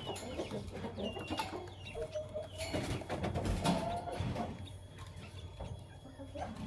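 Lovebirds chirping: short high chirps in the first second or so, then a few lower held calls, with scattered clicks and a steady low hum underneath.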